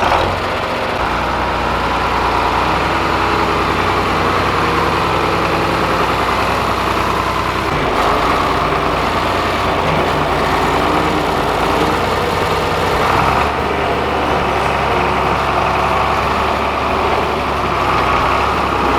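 Farm tractor engine running steadily just after starting up. Its low rumble shifts about eight seconds in and drops away about thirteen seconds in.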